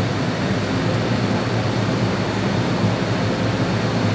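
Steady low hum and rushing noise of an MTR M-train standing at a station platform with its doors open.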